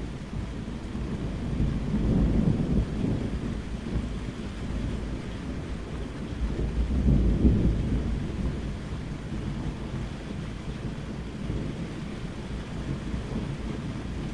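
Steady rain with rolling thunder, a deep rumble that swells twice, about two seconds in and again around seven seconds in.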